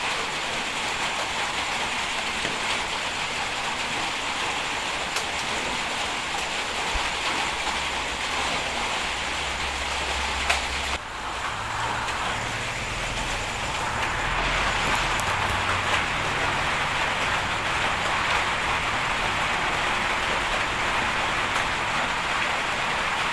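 Bulldozer running, its engine a low steady drone under a constant hiss. The sound changes abruptly about 11 seconds in and gets a little louder from about 14 seconds.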